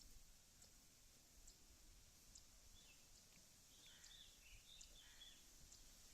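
Near silence: faint outdoor ambience, with a few faint bird chirps in the middle and a faint high ticking about once a second.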